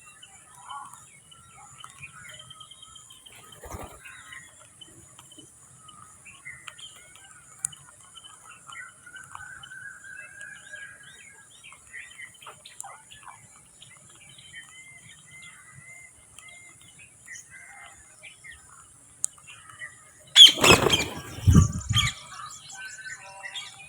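Small birds chirping and calling softly, with a rising-and-falling whistle-like call about ten seconds in. Near the end a bird's wings flap loudly close by for a second or two.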